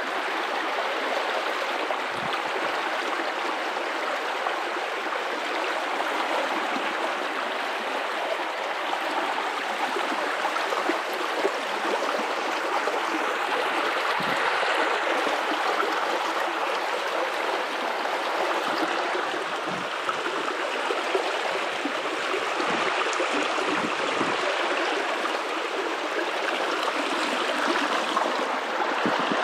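River water running over rocks: a steady rushing flow with small gurgles and splashes.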